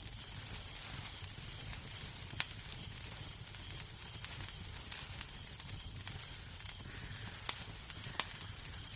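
Wood fire crackling in a fireplace: a steady hissing sizzle with sharp pops a few times, the loudest about two and a half seconds in and near the end.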